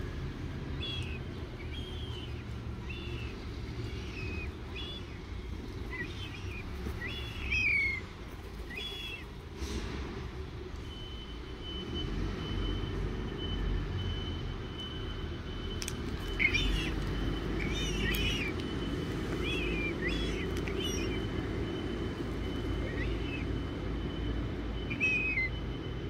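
Birds chirping: short, high calls, some falling in pitch, in clusters with a pause in the middle, over a steady low background rumble. A thin steady whistle-like tone comes in about halfway through.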